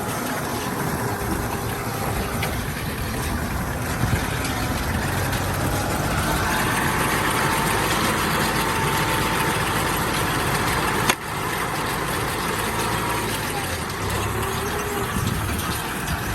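Kubota tractor's diesel engine running steadily. A higher-pitched sound rides on top from about six seconds in until a sharp click about eleven seconds in.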